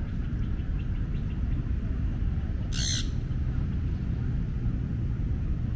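A bird gives one short, harsh call about three seconds in, over a steady low rumble.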